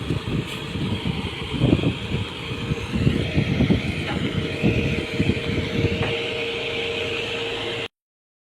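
Engine running steadily with a constant hum, mixed with irregular low rumbling gusts of wind on the microphone. The sound cuts off abruptly near the end.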